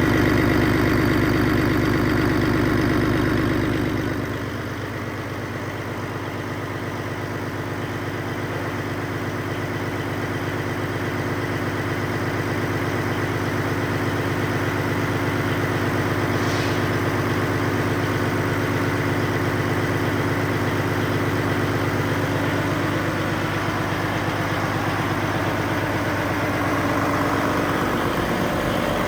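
2012 PACCAR MX13 12.9-litre inline-six diesel engine idling steadily. It gets quieter and loses some of its deep rumble about four seconds in, then slowly grows louder again.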